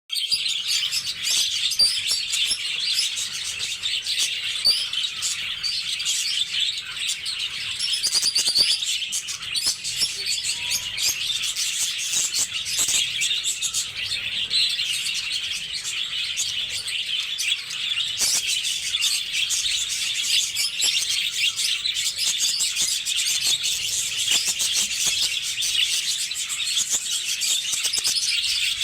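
Lovebirds chirping and chattering continuously, a dense high-pitched stream of overlapping calls.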